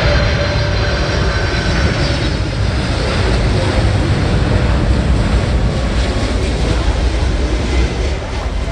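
Boeing 747-400F's four jet engines, a loud steady rumble as the landing freighter goes by, with a faint high whine that fades in the first few seconds.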